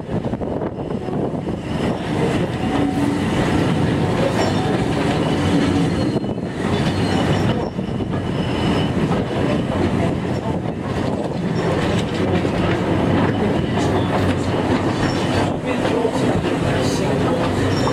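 A short goods train rolling along, heard from its brake van: steady wheel and rail noise with clicks over the rail joints, the coupled wooden wagons rattling, and some faint wheel squeal.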